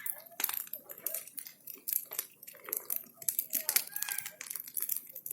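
Branch bonfire crackling and popping: dense, irregular sharp snaps as the burning wood splits.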